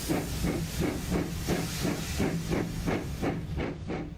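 Steam tank engine chuffing at a steady pace, about three or four puffs a second, over a steady low hum.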